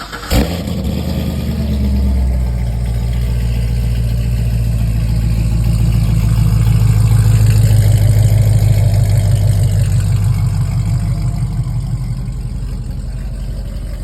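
A car engine running with a deep, low note, growing louder toward the middle and then easing off, as a vehicle moving near or past would. There is a short sharp click just after the start.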